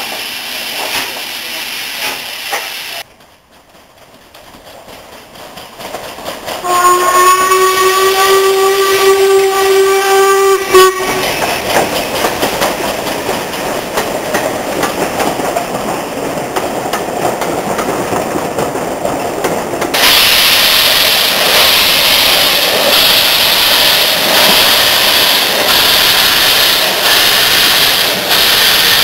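Steam locomotive whistle sounding one long steady blast of about four seconds. Before and after it, the continuous hiss and rush of a working steam locomotive, which gets suddenly louder later on.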